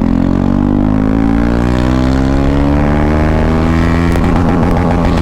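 KTM Duke 390's single-cylinder engine running loud with its exhaust silencer removed, its pitch climbing steadily as the bike accelerates, then turning rougher near the end.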